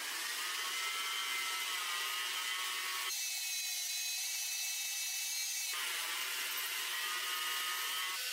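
A small high-speed power tool whining steadily under load. Its pitch and tone change abruptly about three seconds in and again about six seconds in.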